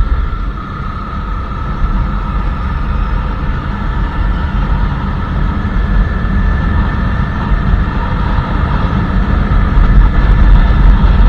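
Royal Enfield Classic 350's single-cylinder engine and exhaust running under way on a ride, a steady low thump that grows a little louder toward the end.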